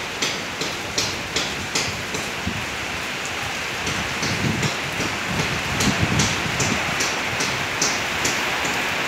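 Steady rain falling, with a regular ticking about two or three times a second that pauses briefly a couple of seconds in and then resumes.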